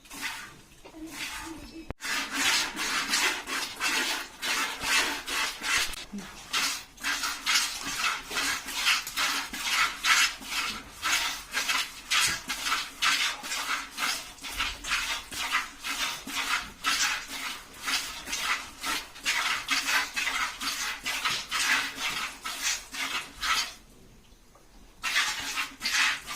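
A buffalo being milked by hand: jets of milk squirt into a pail in a quick, regular rhythm of a few strokes a second. The strokes start about two seconds in and pause briefly near the end.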